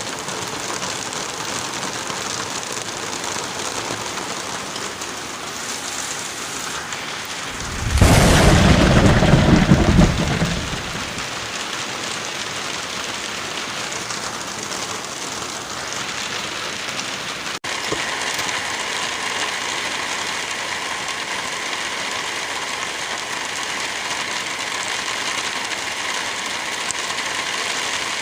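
Steady rain with one loud thunderclap about eight seconds in that rumbles for a couple of seconds and fades. About two-thirds of the way through there is a split-second break, after which the rain's texture changes slightly.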